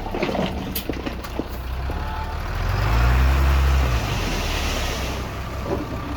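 Heavy diesel engine of earthmoving machinery running, revving up about three seconds in and easing back a second later. Several clanks and knocks come in the first second and a half.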